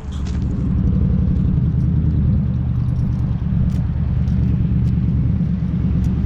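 Car engine running with a loud, steady low rumble close by, swelling in about half a second in.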